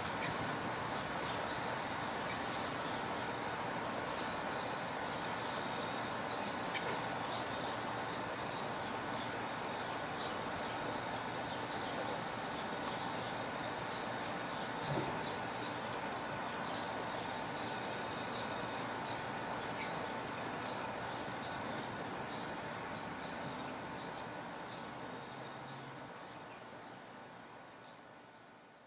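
A small bird giving short, high chip calls over and over, about one or two a second, over a steady background hum; everything fades out near the end.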